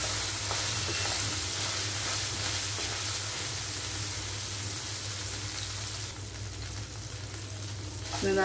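Cubed capsicum frying in hot oil in a frying pan, sizzling steadily while a metal spoon stirs it. The sizzle grows fainter about six seconds in.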